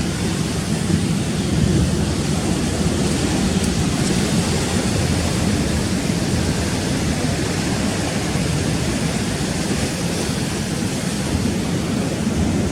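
Rough sea surf with wind: a steady rush of noise with no breaks.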